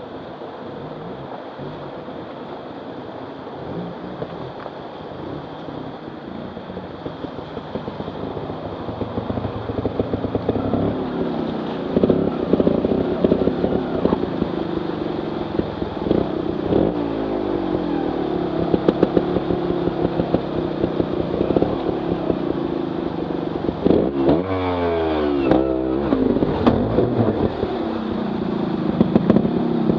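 Trial motorcycle engine running and revving in repeated blips, its pitch rising and falling sharply. It grows louder from about ten seconds in. Underneath is the steady rush of the waterfall.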